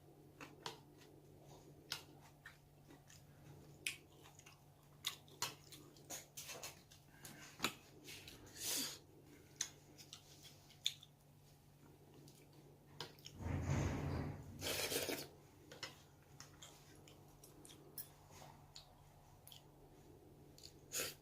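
Close-miked eating of beef-bone soup and braised pollock: chewing with many small sharp clicks and taps, and two louder, longer rushes of sound about thirteen and fifteen seconds in.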